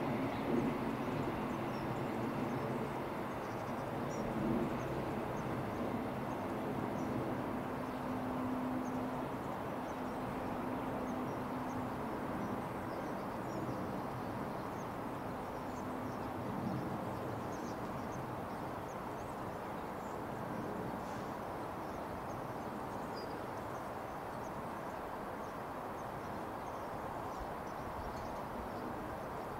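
Freight train running on the line at a distance: a steady rumble with a low hum that fades out about halfway through.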